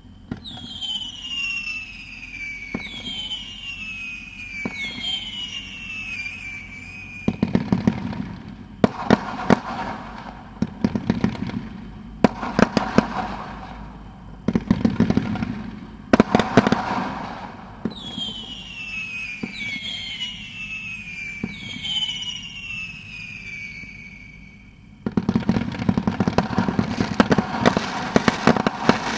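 Consumer firework cake 'Torrent' firing. Falling whistles come in runs of three, alternating with long volleys of rapid pops and crackling.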